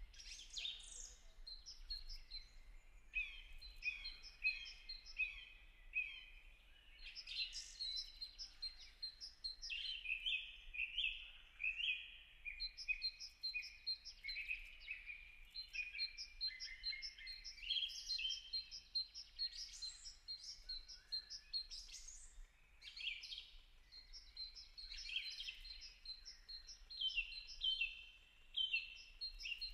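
Wild birds chirping and calling throughout, several at once: quick runs of short, high, repeated notes overlapping one another.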